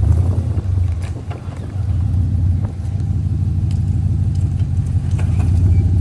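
Off-road 4x4's engine running at low revs under load while crawling over rocks, a steady low rumble with a few faint clicks on top.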